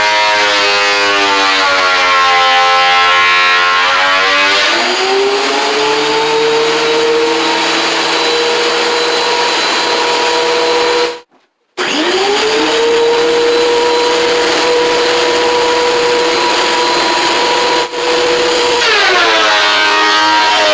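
Electric woodworking power tool motor whining. Its pitch wavers at first as if working through wood, then climbs and holds steady as the load comes off. It cuts out briefly near the middle, spins back up to a steady whine, and drops in pitch near the end as it takes load again.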